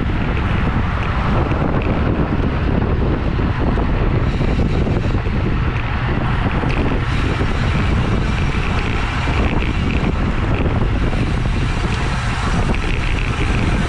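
Steady, loud wind rushing over the microphone of a camera carried on a racing bicycle at speed.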